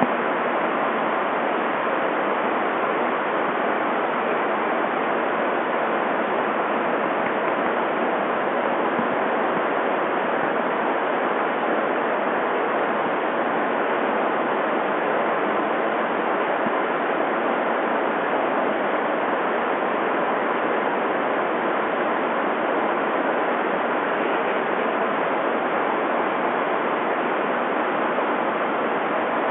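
Steady, even rushing of large electric fans blowing wind across an indoor pool for radio-controlled sailboat racing.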